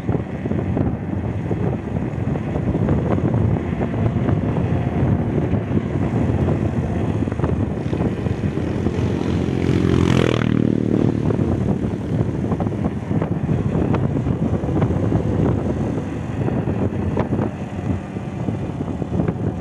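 Steady road and wind noise from a vehicle driving on freshly laid asphalt. About ten seconds in, another engine passes close by, rising and then falling in pitch.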